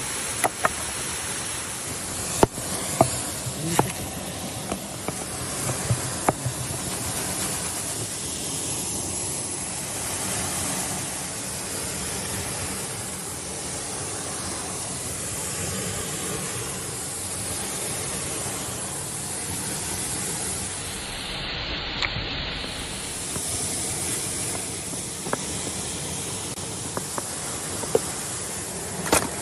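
Steady rush of a waterfall, with a scatter of sharp clicks and knocks in the first seven seconds and a few more near the end.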